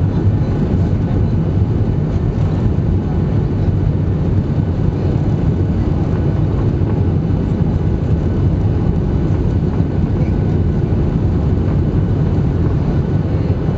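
Boeing 737-800 taking off, heard as a steady, loud, low rumble of its CFM56 jet engines at takeoff thrust mixed with airflow noise, as heard from inside the passenger cabin.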